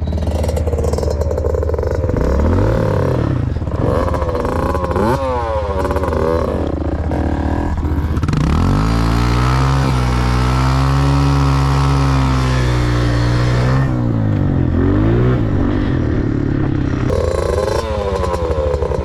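Dirt bike engine revving up and down several times, then held at high revs for several seconds from about eight seconds in before dropping back.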